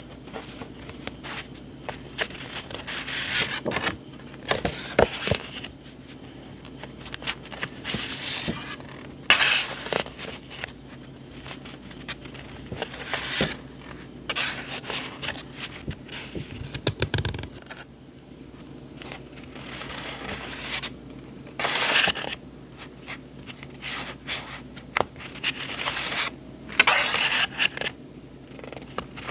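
Paper journaling supplies being handled at close range: repeated rustling and sliding scrapes of sheets, with small taps and clicks, in short bursts every second or two.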